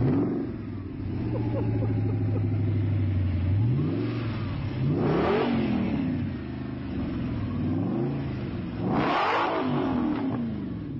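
A turbocharged car engine mounted in the rear of a small hatchback idles steadily, then is revved twice, a few seconds apart. Each rev rises and falls with a rushing hiss at its peak.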